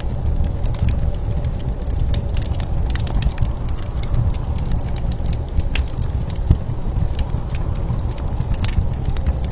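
Wood fire crackling, with many irregular sharp pops and snaps over a steady low rumble of blizzard wind.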